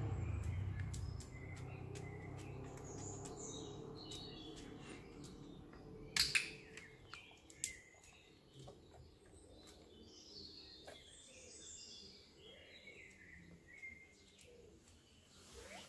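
Garden birds chirping and singing on and off. A sharp click about six seconds in, and a fainter one just over a second later.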